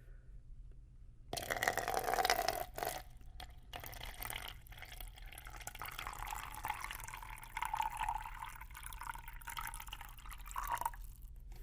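Water poured into a cup. It starts about a second in with an uneven, splashy gush, then settles into a steady pour whose pitch rises slowly as the cup fills, and it stops just before the end.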